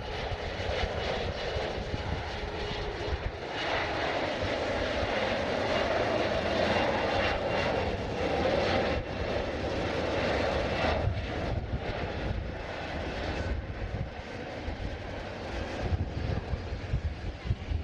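Airliner engines at an airport, a broad steady roar that eases off about eleven seconds in, leaving an uneven low rumble.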